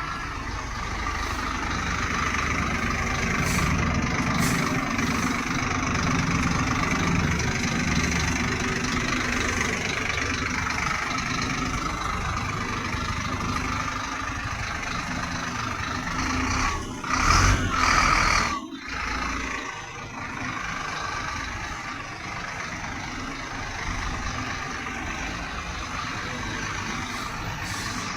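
Diesel coach engines running at idle, a steady rumble, with a brief louder burst about two-thirds of the way through.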